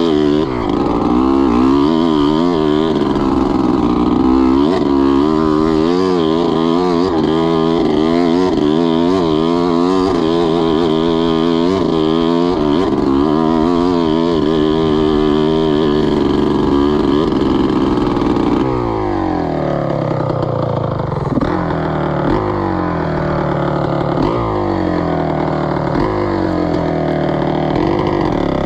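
2003 Gas Gas EC300's two-stroke single-cylinder engine under riding load, its revs rising and falling quickly with the throttle for the first two-thirds. It then settles into a series of falling revs every second or two.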